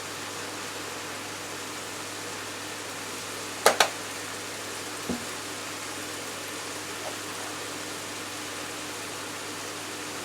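Steady sizzle of vegetables frying in a pan, with a sharp double knock a little under four seconds in and a smaller one about a second later.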